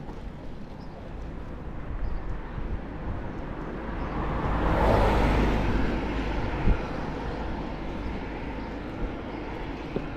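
A vehicle passing by, its noise building to the loudest point about five seconds in and then fading away, over a steady low rumble. A single sharp knock sounds about two-thirds of the way through.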